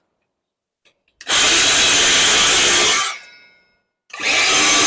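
Collated screw gun driving screws into framing lumber: two runs of the motor, each about two seconds long, the first a little over a second in and the second near the end, each winding down as the trigger is released.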